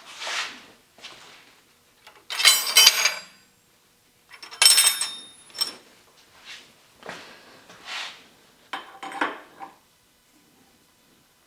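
Metal parts and hand tools clinking and clattering as they are handled, with two loud jingling, ringing clatters a few seconds in and lighter knocks after them.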